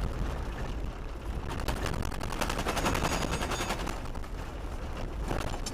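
A rapid run of many small clicks or knocks, several a second, over a steady low rumble.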